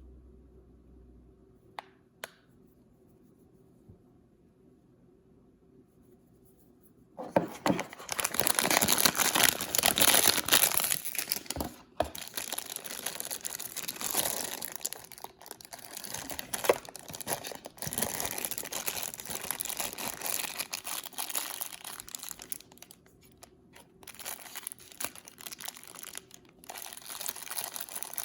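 Blind-bag toy packaging being crinkled and torn open by hand. The first several seconds are quiet apart from a couple of faint clicks, then the crinkling starts abruptly and continues with a few sharp snaps.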